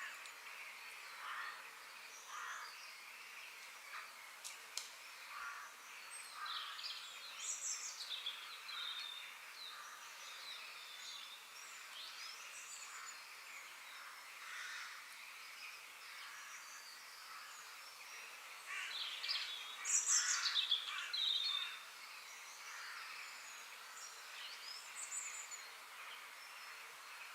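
Forest ambience of several birds calling and chirping over a soft steady hiss, with short notes and quick falling whistles. A louder flurry of calls comes about two-thirds of the way through.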